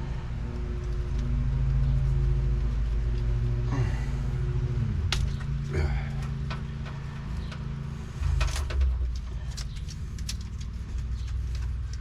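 Steady low mechanical hum, with scattered clicks, rattles and knocks of old wiring harness and connectors being worked loose from the truck's cab; a louder knock comes a little past the middle.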